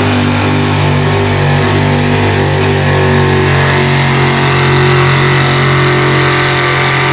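Competition pulling truck's engine held at high revs under heavy load as it drags the weight sled, with a steady pitch that climbs slightly midway. It drops off abruptly at the very end as the throttle is let off.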